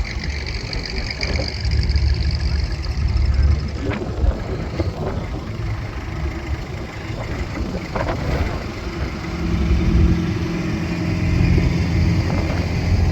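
Car engine idling, with a few short knocks midway; a steadier engine note sets in about two thirds of the way through.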